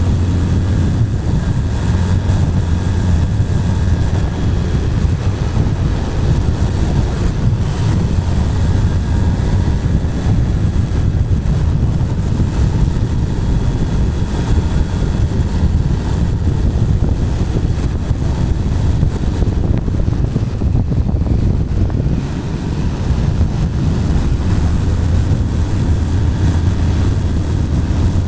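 Bajaj Pulsar 220's single-cylinder engine running steadily at highway cruising speed, mixed with wind rushing over the helmet-mounted microphone. It eases off slightly for a moment about two-thirds of the way through.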